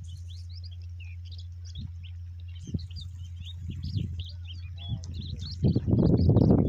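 Small birds chirping busily, with many short, high chirps that keep overlapping. Near the end a louder rough, low rumbling noise comes in over them.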